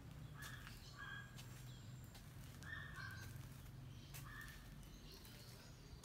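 A few short, faint bird calls over a low steady hum.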